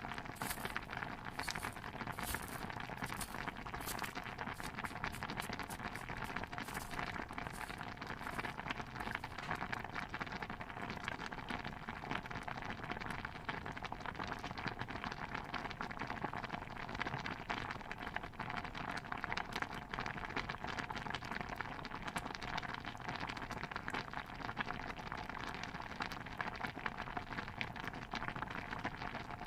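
Stew bubbling in a pot: a dense, steady patter of small pops and crackles, with sharper pops during the first eight or nine seconds.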